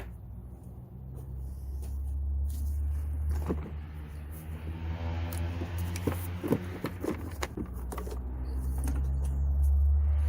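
A steady low hum that grows louder, with scattered clicks and knocks of parts being handled.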